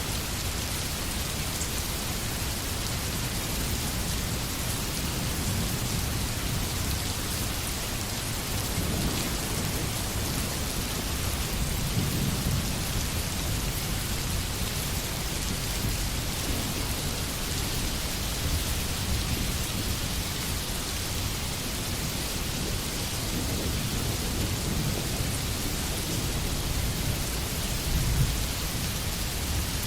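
Steady rain in a forest, an even hiss of falling water. Low rumbles swell up now and then: about a third of the way in, again around twelve seconds, and most strongly near the end.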